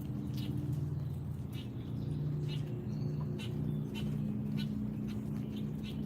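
A steady low hum with short high-pitched chirps about once a second.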